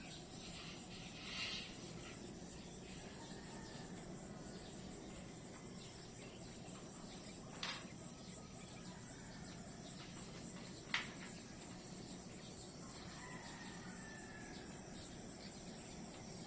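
Nature ambience: a steady, high-pitched insect chorus like crickets, with a few brief sharp calls, the loudest about eleven seconds in, and faint whistled bird calls near the end.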